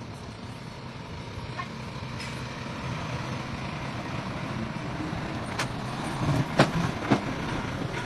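Dump truck engine running steadily, with a few sharp knocks and clanks in the second half, the loudest about two-thirds of the way through.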